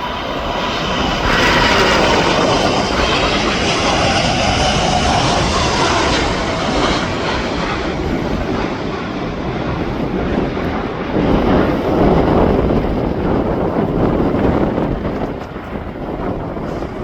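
Jet engines of a heavy Boeing airliner at high power as it goes past: a whine over a loud rumble. The whine fades after about seven seconds, leaving a deeper rumble that swells again around twelve seconds and then eases.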